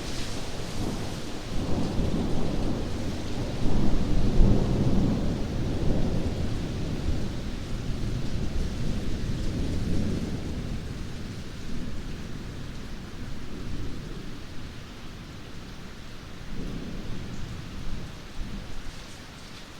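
Steady rain with a long roll of thunder, loudest a few seconds in, rumbling on and dying away over the second half.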